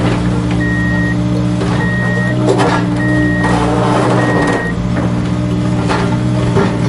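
Reverse-warning beeper sounding about once a second, stopping nearly five seconds in, over a steady low motor hum from RC construction toys. Scattered short clicks and scrapes.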